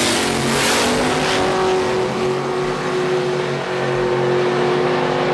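Car engine revving up and then held at a steady high rpm, with a hiss of noise in the first second.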